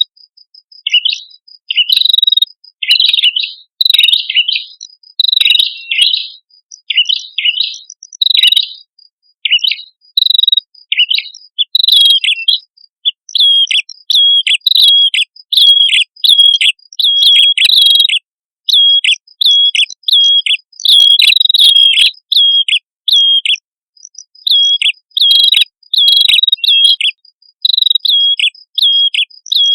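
Prenjak kepala merah calling: long runs of sharp, hooked chirps, repeated quickly with short pauses between runs. A thin, high, fast ticking trill runs alongside at times.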